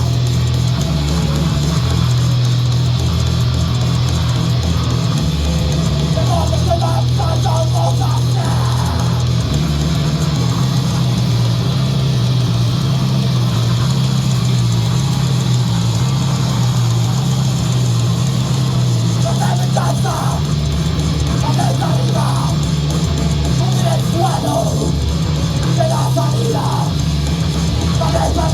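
A live band playing loud, heavy rock in a metal/punk vein: distorted guitars and a drum kit over a strong bass line. A wavering lead line, a voice or guitar, comes in at moments.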